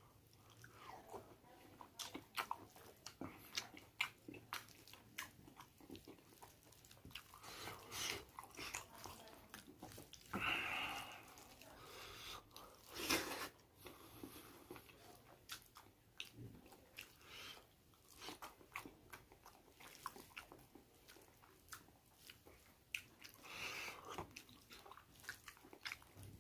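A person chewing and biting pork up close: many short wet clicks and crunches from the mouth, with a few louder, longer chews.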